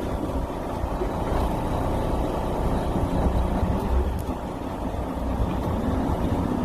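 Fishing boat's engine running steadily at low revs, a continuous low hum.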